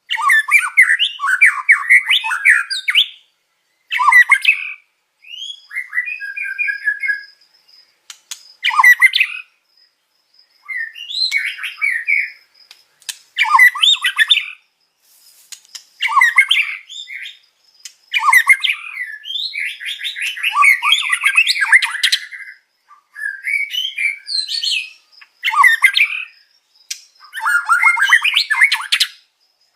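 White-rumped shama (murai batu) singing a varied masteran repertoire in repeated bursts of rapid, sweeping, chattering phrases with short pauses between them. The phrases mix in imitated song of other birds such as canary and cililin.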